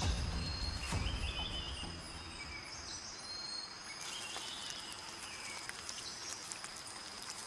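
Rainforest ambience: a steady, high-pitched insect drone with scattered bird chirps. A low hum fades out over the first two seconds.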